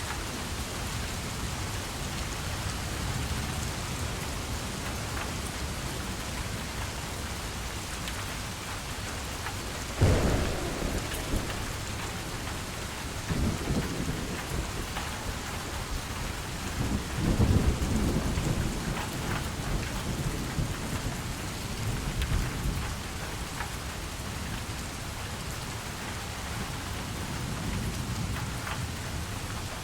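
Steady rain falling, with a sudden thunderclap about ten seconds in and rolling thunder rumbling on and off through the middle of the clip.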